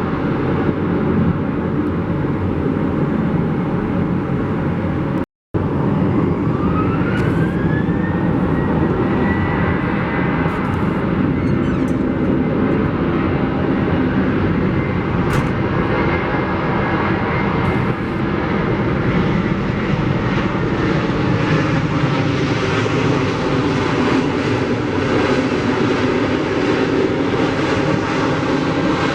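Jet airliner engines running loud. A few seconds in, a whine rises in pitch and then holds steady over the rumble as the engines spool up.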